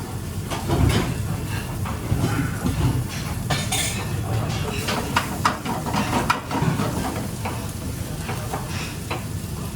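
Kitchen clatter of dishes, pots and utensils: a string of irregular clinks and knocks.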